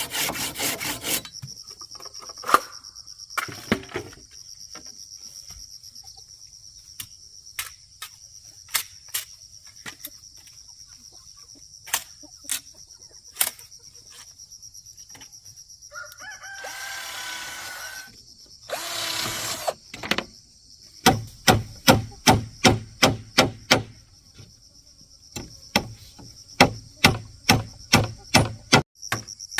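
Hand saw strokes on wood stop about a second in, followed by scattered single knocks over a steady high insect buzz. A rooster crows partway through. Near the end come steady rows of hammer blows, about two or three a second.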